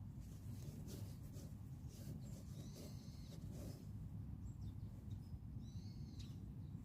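Faint steady low hum with a few short, high chirps, about two seconds in and again near the end, and some light clicks.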